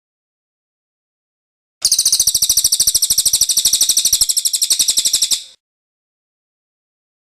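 Cililin bird giving its rolling trill (ngerol): one rapid, high-pitched run of evenly repeated notes, about a dozen a second, starting about two seconds in and lasting nearly four seconds, with dead silence on either side.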